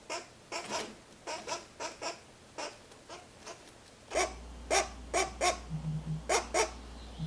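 Nestling pileated woodpecker calling: a run of short, repeated cries, about two a second, which grow louder about four seconds in over a steady low hum.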